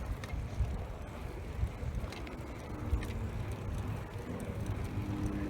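Wind buffeting the microphone and the rumble of a bicycle being ridden, with a few light clicks. A faint steady hum comes in near the end.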